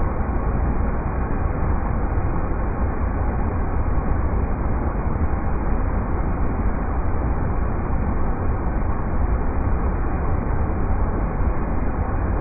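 River rapids rushing as a steady, unbroken deep roar with no highs.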